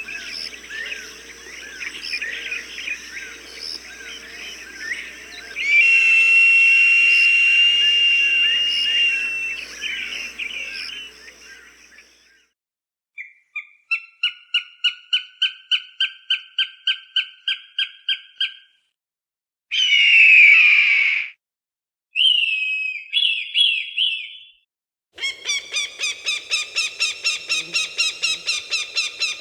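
Recorded falcon calls: a long, high whistled cry over background chirping, then runs of sharp repeated notes about four to five a second, broken by a single harsh scream about twenty seconds in.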